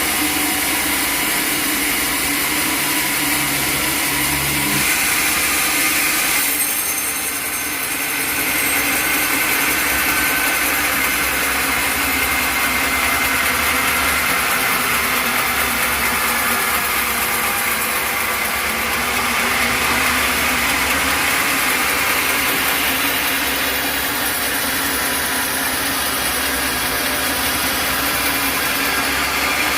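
Sawmill machinery running steadily: an engine-driven saw working, with a constant hum under a loud high-pitched noise. The sound dips briefly about seven seconds in.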